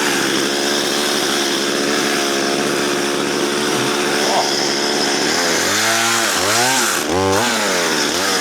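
Chainsaw held at a steady high engine speed for about five seconds, then revved up and down about four times near the end. The chain is dull, so the saw has to be revved hard to get through the spruce.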